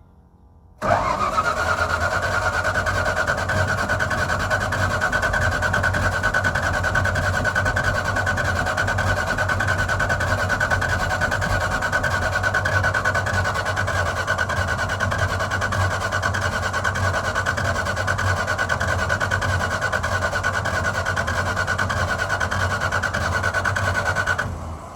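A 1981 Dodge D150's 225 slant-six engine being cranked on its starter motor for over twenty seconds without catching; the starter whines steadily and stops near the end. The engine will not fire, which the crew later puts down to the choke.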